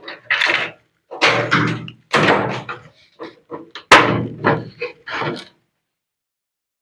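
Knocking and clattering from hands working on the machine, with one loud, sharp thunk about four seconds in, then silence.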